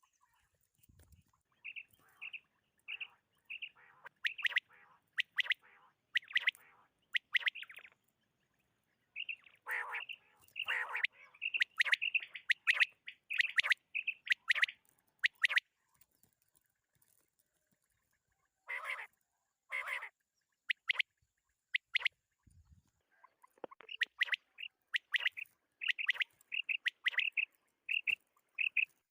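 Quail calling: short, high chirping calls repeated in quick runs of about one to two calls a second, broken by pauses of a second or two.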